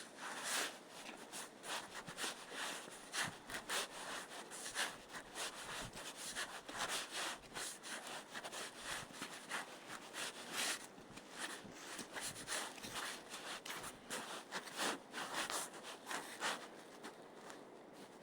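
Footsteps on thawing snow and wet forest ground: a run of crunches and scuffs of about two steps a second.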